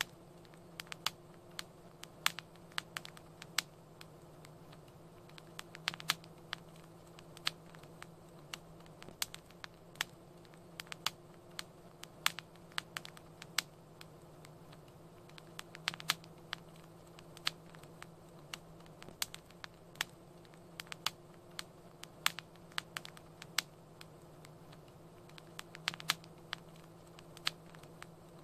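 Wood fire crackling, with sharp pops at irregular intervals, a few each second, over a steady low hum.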